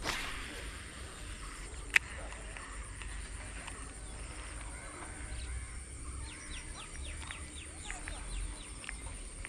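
Birds calling around an open field, with a short rush of noise at the start and one sharp click about two seconds in.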